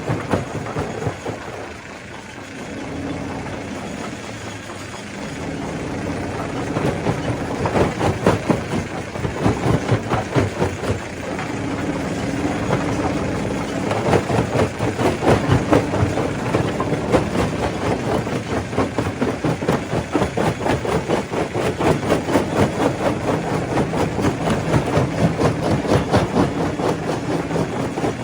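Stone crusher running under load, rock clattering and knocking in quick succession over a steady motor hum. The knocking eases briefly a couple of seconds in and grows heavier about halfway through.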